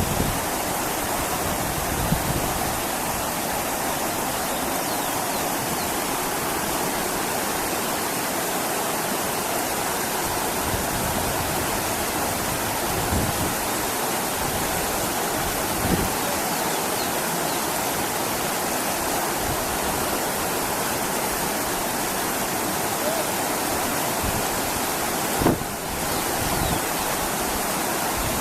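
Steady rushing of a waterfall, the water pouring and splashing without pause, with a brief thump near the end.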